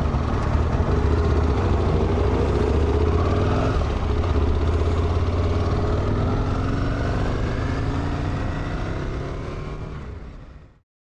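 Motorcycle engine running under way and accelerating, its pitch rising several times as it pulls, then fading out and cutting off near the end.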